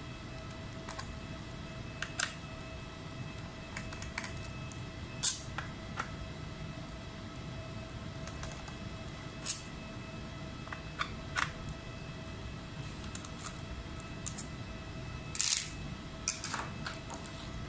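Scattered light clicks and taps of small tools and laptop parts being handled, with a few sharper clicks about five, nine and fifteen seconds in, over a faint steady hum.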